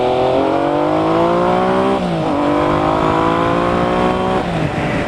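Triumph Legend TT motorcycle engine pulling hard under acceleration. Its pitch climbs steadily in each gear and drops sharply at each upshift: about half a second in, about two seconds in, and again near the end.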